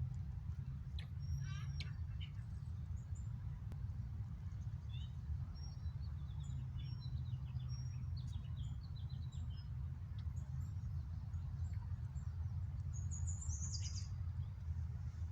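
Small birds chirping in scattered short calls, with a quick descending trill near the end, over a steady low rumble.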